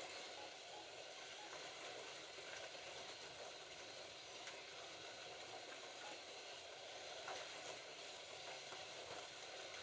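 Slot cars running laps on a plastic track: a faint, steady whirring hiss of small electric motors and pickup braids on the rails, with a few light clicks.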